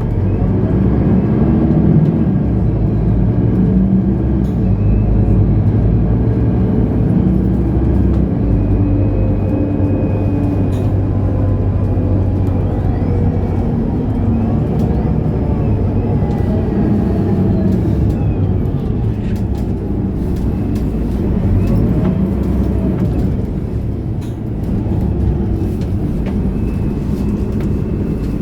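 Mercedes-Benz O530 Citaro city bus running under way: a steady diesel engine hum with road noise. The sound eases briefly near the end.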